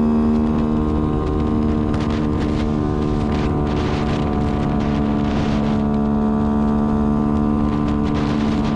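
Yamaha Y15ZR's 150 cc single-cylinder four-stroke engine running at steady revs at highway cruising speed, with wind rushing over the microphone, swelling now and then.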